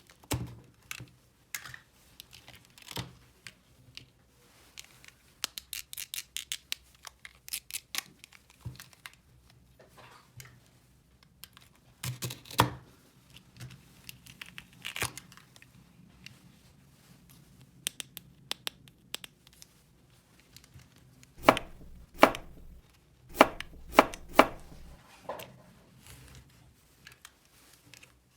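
Small plastic toy pieces and packaging being handled: scattered clicks and rustles, a quick run of light clicks, then several louder snaps near the end.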